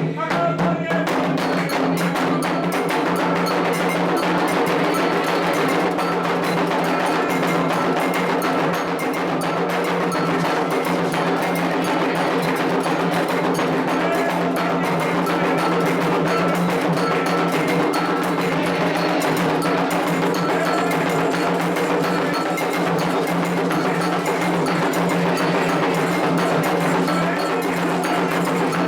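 Candomblé ritual percussion: hand drums played in a fast, dense rhythm with a metal bell struck in a repeating pattern over it.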